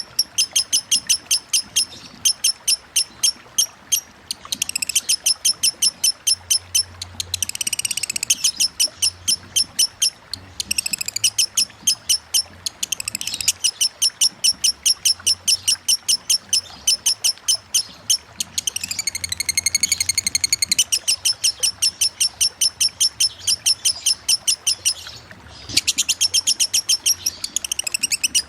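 Lovebird singing a long 'konslet' chattering song: rapid high chirps at about five a second, broken several times by short warbling trills. A faint even hiss of running water lies underneath.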